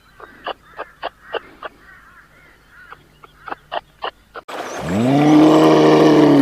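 A run of about a dozen short, sharp bird-like calls, then a loud, long, low animal call near the end that rises in pitch, holds and begins to fall.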